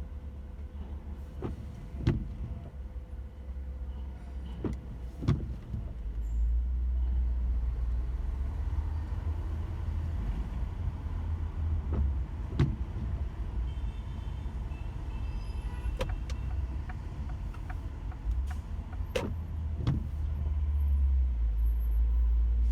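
Car cabin noise while driving in light rain: a steady low engine-and-road rumble that grows louder a few seconds in and again near the end, with a few sharp clicks, several coming in pairs.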